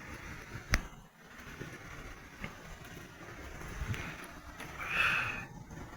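Camp gear being handled and gathered up: a few scattered knocks, then a short rustle about five seconds in.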